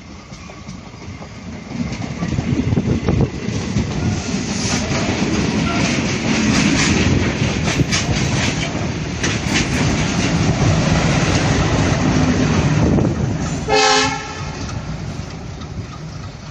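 Goods train running past on the track in reverse, with a steady rumble and wheels clattering over the rail joints. A short horn blast sounds about three-quarters of the way through, and then the train fades.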